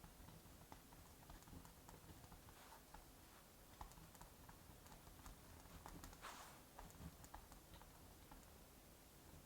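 Faint crackling of a wood fire: small, irregular pops and clicks over a soft, steady hiss, with one brighter crackle about six seconds in.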